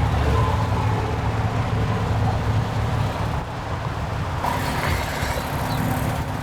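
Steady low rumble of idling diesel trucks with highway traffic noise mixed in.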